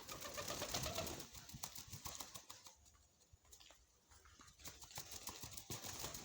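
Pigeons close by: a dense crackle of clicks and rustling, louder in the first second and a half and again near the end.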